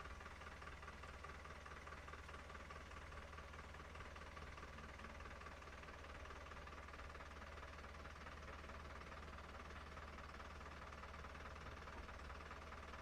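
Near silence: a faint steady low hum with light hiss, and no distinct events.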